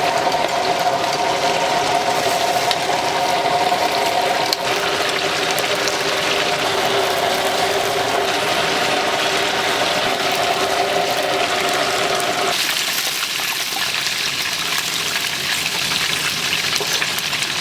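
Hot oil sizzling steadily as food deep-fries, with a steady mechanical hum over it that stops abruptly about twelve seconds in.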